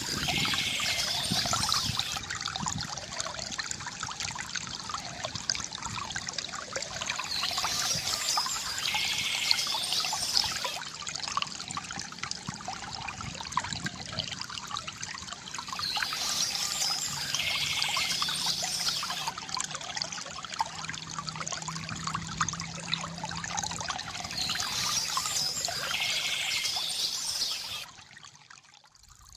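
Water trickling and pouring steadily from a bamboo fountain, with birds chirping in short spells about every nine seconds. The sound drops away sharply near the end.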